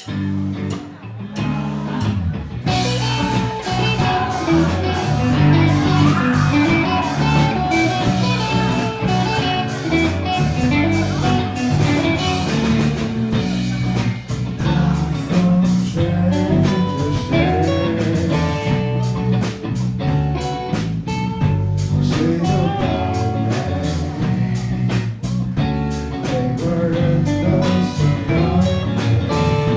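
Live rock band playing with electric guitar, bass and drums. Low bass notes come in right at the start, and the full band joins about three seconds in.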